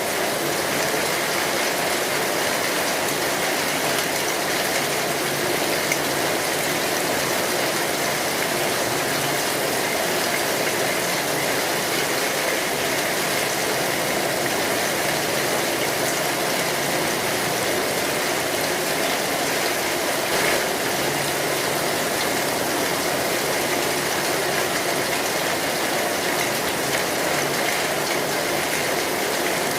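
Steady rain falling on a metal roof, mixed with the crackle of a wood fire.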